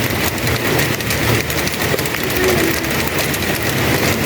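Heavy rain falling steadily: a dense hiss full of sharp drop patters, over a low, even rumble.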